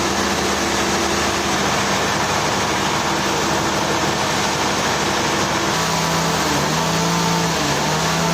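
An engine running steadily over a dense noise of machinery; about six seconds in its note drops a little and stays lower.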